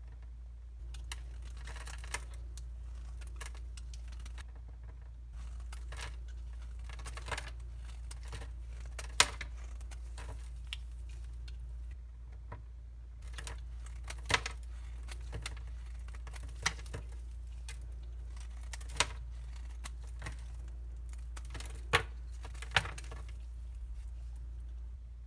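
Dry soap crunching and crackling: irregular crisp clicks and crumbly scraping, with a handful of sharper, louder snaps scattered through.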